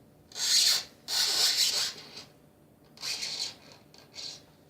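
Lines being drawn across a polystyrene foam sheet: rubbing, scratchy strokes, two longer ones followed by three shorter ones.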